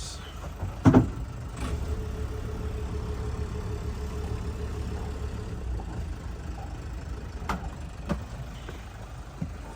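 Sailboat's inboard engine running in light reverse while berthing: a steady low rumble. A loud sharp knock comes about a second in, and two smaller knocks come near the end.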